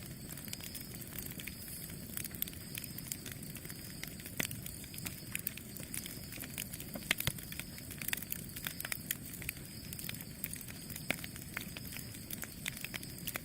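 Campfire burning, with frequent irregular sharp crackles and pops over a low steady rush of the flames.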